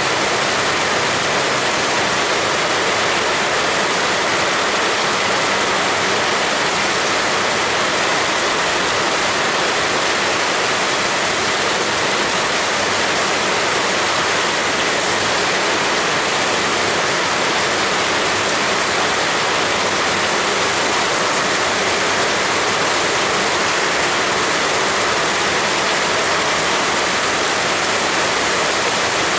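Heavy rain pouring down in a steady, dense hiss, with no distinct drops or gusts standing out.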